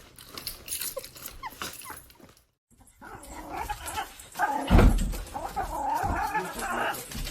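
A dog whining and yipping in a wavering voice, with a few dull thumps, after a brief total silence about two and a half seconds in.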